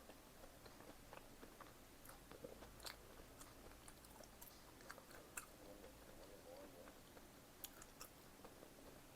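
Faint chewing of pizza close to the microphone: soft wet mouth clicks and smacks, with a few sharper clicks scattered through.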